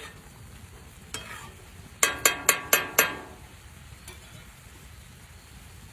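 A metal utensil knocking against a cast iron skillet five times in quick succession about two seconds in, each strike ringing briefly, as chicken is stirred in the pan. A faint sizzle of the food frying runs underneath.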